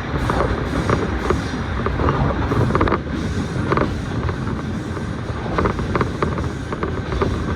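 Electric commuter train running along the line, heard from inside the carriage: a steady rumble with scattered short clicks.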